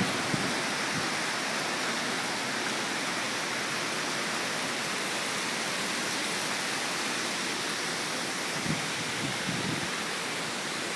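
Steady, even rush of a hurricane's strong wind with rain, with a couple of soft low buffets on the microphone near the end.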